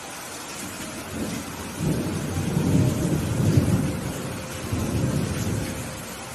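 Thunder rumbling over steady rain. The rumble builds from about a second in, is loudest in the middle, swells once more, then fades away before the end.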